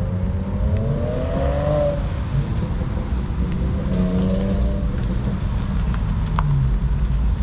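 Car engines running, with a steady low rumble and one engine briefly revving up, its pitch rising.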